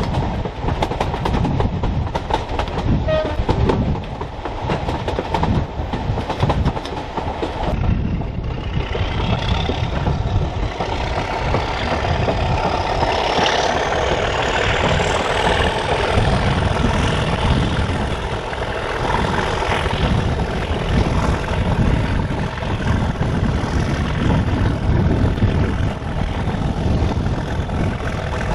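Heritage train running on the line: steady running noise with frequent irregular knocks from the wheels. About a third of the way in, a high whine climbs steadily in pitch for several seconds and then holds.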